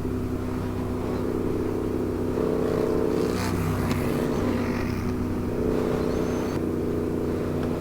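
Yamaha R7 parallel-twin engine running steadily under way, heard from the rider's seat. The pitch dips briefly about three seconds in, alongside a short rush of noise.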